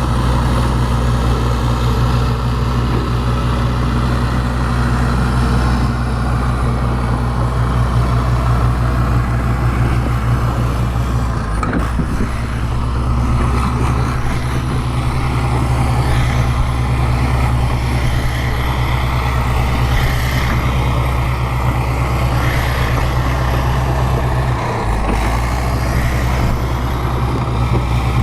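Bulldozer's diesel engine running steadily under load, with brief changes in its note about twelve seconds in and again near the end.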